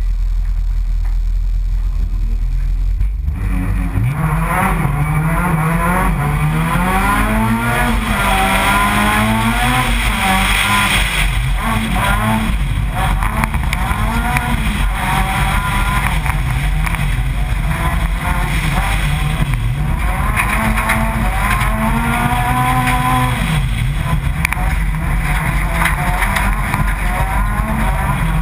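Honda Civic Type-R's four-cylinder engine heard from inside the car, running steadily for about three seconds, then revving hard as the car launches and races along a gravel course, its pitch climbing and dropping again and again with each gear change.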